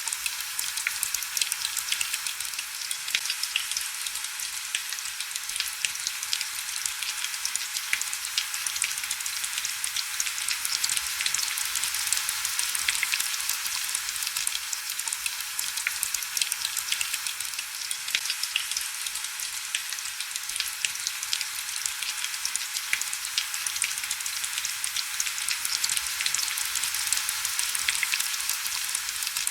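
Heavy rain falling steadily: a dense patter of many small drop ticks heard mostly as a high, even hiss, with no low rumble.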